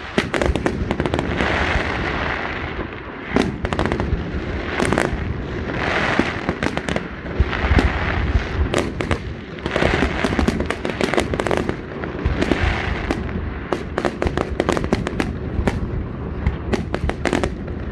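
Fireworks display going off continuously: a dense run of sharp bangs and crackling reports, with recurring hissing swells between them.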